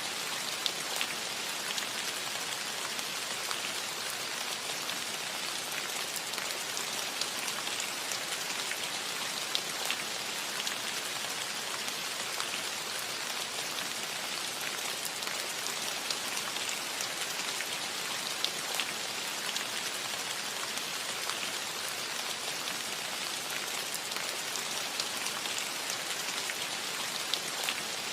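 Steady gentle rain falling on a metal roof, a constant patter with scattered louder individual drops ticking on the metal.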